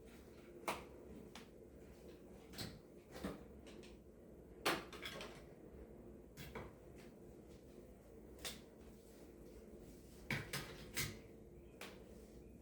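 Household objects being handled: scattered light knocks and clicks, about nine in all, the loudest a little under five seconds in, over a steady low hum.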